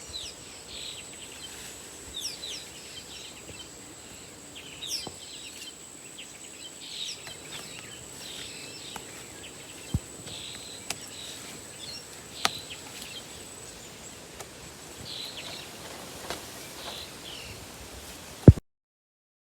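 Birds calling again and again in short, quick down-sweeping chirps over outdoor ambience and a thin, steady high-pitched tone, with a few sharp knocks in between. A loud click comes near the end, and then the sound cuts out.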